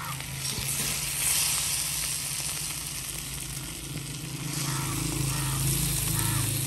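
Stuffed bitter gourds in besan masala sizzling in a black iron karahi: a steady hiss, with a low steady hum underneath. From past halfway, short chirps repeat about twice a second.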